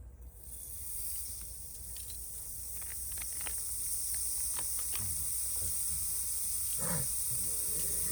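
Food starting to sizzle in a hot pan: a steady high hiss that sets in suddenly just after the start, with scattered faint crackles.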